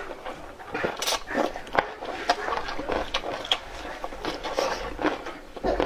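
Close-up eating sounds: chewing, with an irregular run of sharp wet clicks, smacks and short scrapes.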